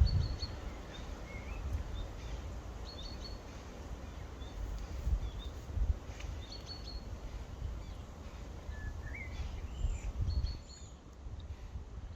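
Outdoor ambience with a bird chirping: a short high call repeated about every three to four seconds, with a few other brief calls, over a steady low rumble.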